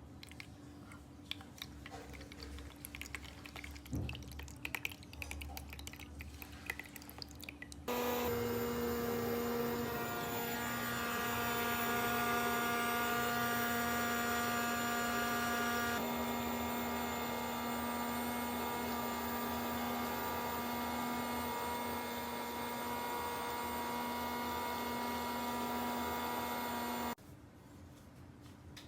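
Faint scattered clicks of small objects being handled, then a steady hum made of several fixed tones that starts suddenly about eight seconds in, shifts slightly partway through, and cuts off suddenly near the end.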